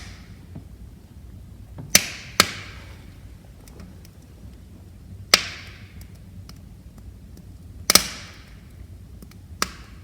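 Wood fire crackling in a fireplace: five or so loud sharp pops of burning logs, each with a brief hiss, among fainter ticks over the low steady rush of the flames.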